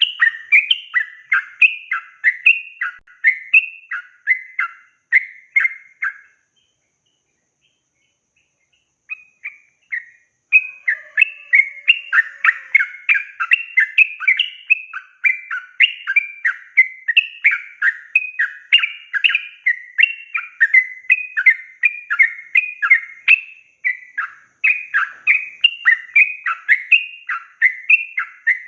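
Yellow-vented bulbul (trucukan) singing long runs of rapid repeated notes. It stops about six seconds in and picks up again after a pause of about four seconds, then sings on without a break.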